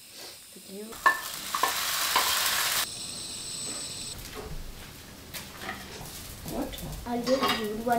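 Uttapam batter sizzling on a hot cast-iron tawa, loud for a couple of seconds about a second in, then a quieter sizzle.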